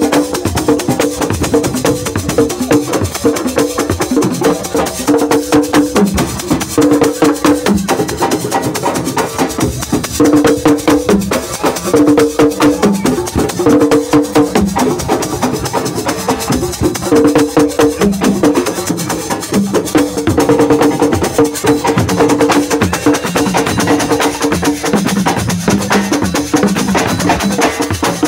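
Assiko band music: fast, dense percussion with sharp woodblock-like clicks and shaker rattle, over a repeating phrase of two held pitched notes that comes and goes.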